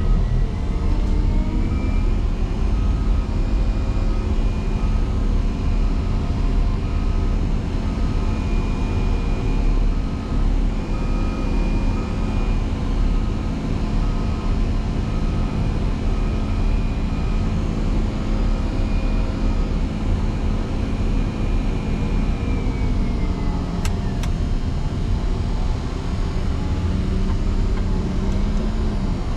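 Motor grader's diesel engine working hard under load while pushing into a snowdrift. It revs up about two seconds in, holds steady, drops back a little after twenty seconds and climbs again near the end. A repeating beep sounds through the first half.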